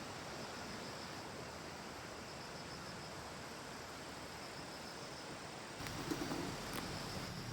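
A dove cooing briefly near the end, over a steady outdoor hiss.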